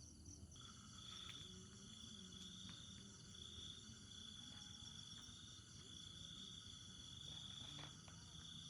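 A faint chorus of insects, crickets among them, trilling steadily at several high pitches; a lower-pitched trill joins about half a second in.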